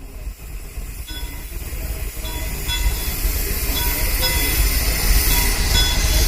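Steam train running on the track, growing louder, with a deep low rumble and brief high squeals.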